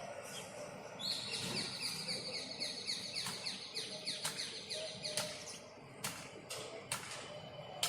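Myna birds calling: a fast run of high, rapidly repeated chirps lasting about four seconds, then several sharp clicks.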